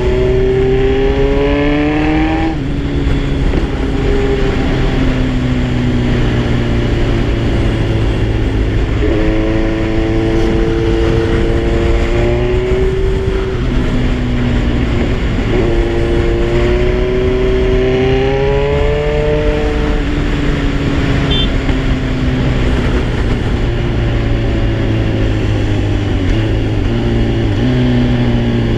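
Kawasaki Z1000's inline-four engine on the road, revving up in rising runs near the start, around 9–13 s and 16–20 s, each ending in a drop in pitch, and easing off with falling pitch in between and after about 20 s. A steady rush of wind lies under it.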